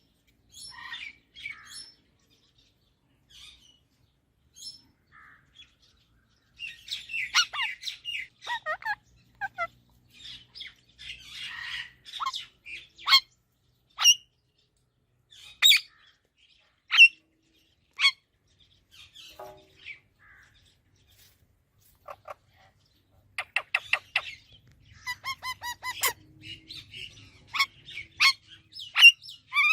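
Pet parrot chirping, whistling and squawking in irregular bursts, with several short, sharp loud calls in the middle and a quick run of calls near the end.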